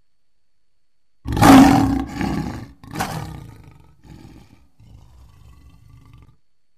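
Lion roaring. A loud roar starts about a second in and a second roar follows at about three seconds, then the call tails off into a series of softer grunts that stop shortly before the end.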